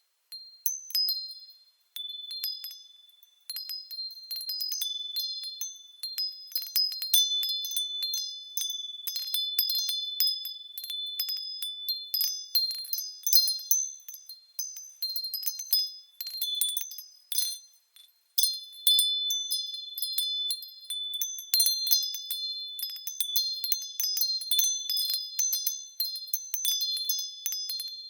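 Japanese wind bells (fūrin) ringing in the breeze: frequent, irregular light strikes of high, clear tones that ring on. There are short lulls near the start and about two-thirds of the way through.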